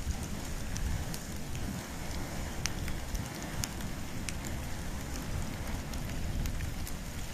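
Campfire of wood and bamboo burning: a steady low rumble of flame with scattered sharp crackles and pops.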